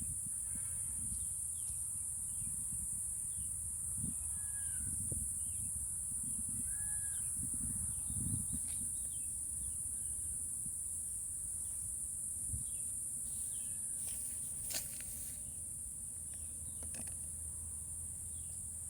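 Insects keep up a continuous high-pitched drone, with a few short bird chirps and scattered clicks over a low rumble.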